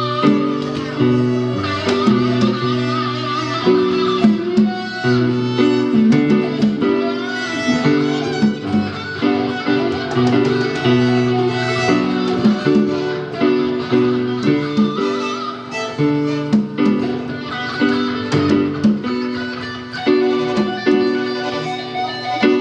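Live band playing an instrumental passage led by guitar: plucked and strummed acoustic guitar with sustained melodic notes above it.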